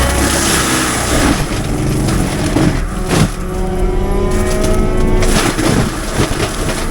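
CAT 310 excavator running a mulcher head that grinds brush and wood. Its whine shifts up and down in pitch as it works, and sharp cracks and knocks come as the wood is chewed.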